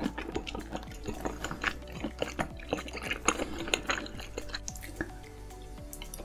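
Close-miked chewing of a mouthful of saucy seafood: many quick wet, sticky mouth clicks and smacks, over faint background music.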